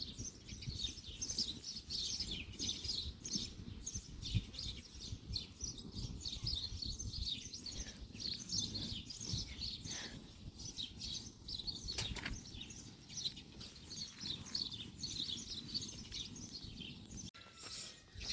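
Small birds chirping, many short high chirps overlapping without a break, over a low background rumble.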